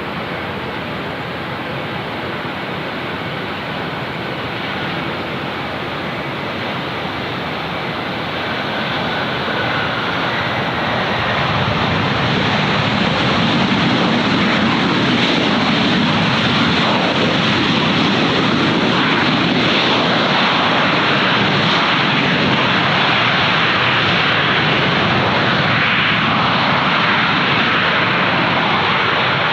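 Airliner's engines, growing louder for several seconds about a third of the way in, then holding loud and steady.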